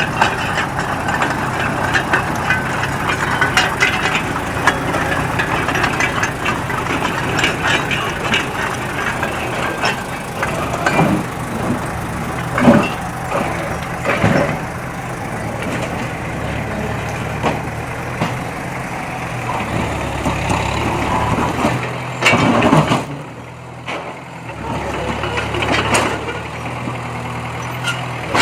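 Heavy diesel earthmoving machinery running steadily, with several loud metal clanks and knocks from the working equipment.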